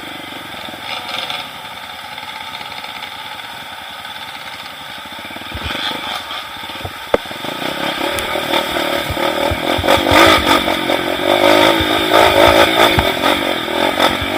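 Trail motorcycle engine running, low and even at first, then louder from about six seconds in with clattering and scraping as the bike is worked over rough ground, with a sharp knock near seven seconds.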